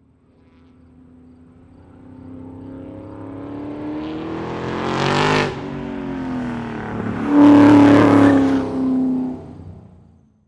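A motor vehicle's engine swelling up from silence with pitch gliding, surging twice, the second surge the louder, then fading away.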